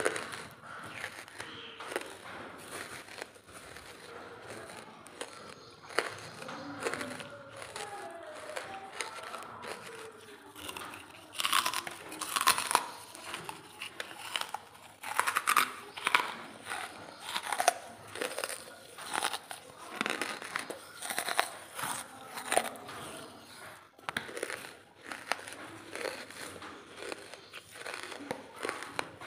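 Close-miked crunching and chewing of dry charcoal: crisp, irregular crunches, soft and sparse at first, then coming thick and loud from about eleven seconds in.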